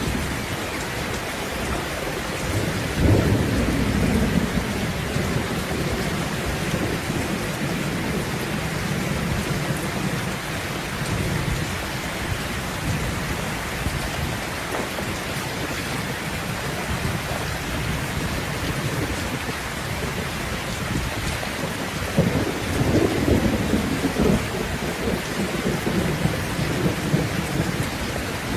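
Steady heavy rain hissing down, with thunder rumbling twice: a swell about three seconds in and a longer, rolling one from about two-thirds of the way through to the end.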